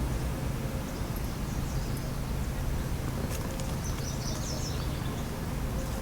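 Steady low rumbling background noise, with a few faint high chirps like a bird about four seconds in.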